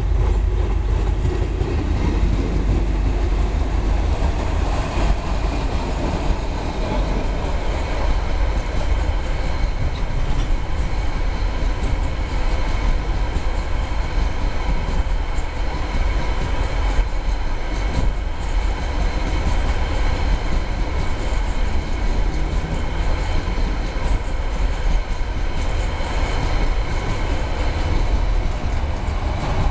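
A CRRC Ziyang CDD6A1 diesel-electric locomotive passes close by, followed by a long string of container flat wagons and covered box wagons. The train rolls past with a steady, even rumble, and the wheels click over rail joints.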